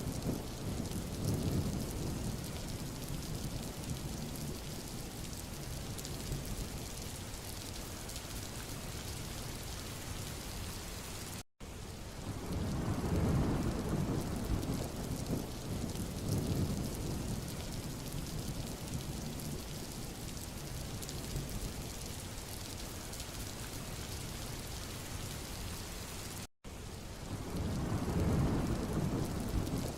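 Steady rain falling on a road, with wind through trees and a low rumble that swells and fades about every fifteen seconds. The sound cuts out for an instant twice.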